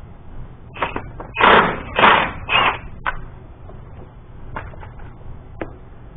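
Metal engine parts and tools being handled, giving a quick run of clunks and scrapes in the first three seconds, then a few lighter clicks.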